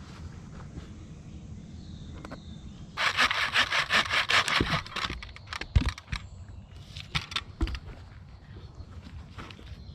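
Wood being sawn by hand in a quick run of rasping strokes lasting about three seconds, followed by a few scattered knocks and thuds.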